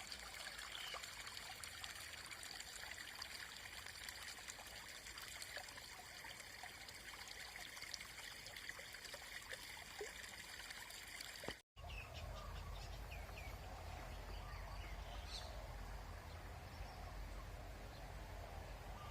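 Countryside ambience: a steady trickling hiss, with faint high steady tones above it. After a brief dropout a little past halfway, a low rumble and birds chirping in short rising and falling calls.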